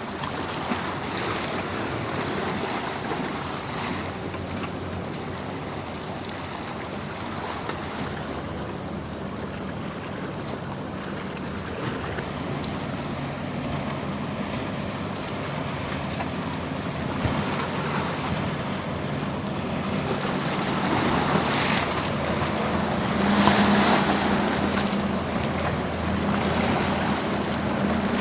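Surf and rolling waves with wind buffeting the microphone, and a passing boat's engine drone that grows louder over the second half.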